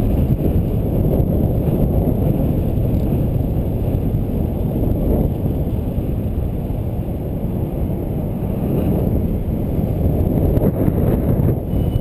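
Wind noise on the microphone while riding: a loud, steady low rumble.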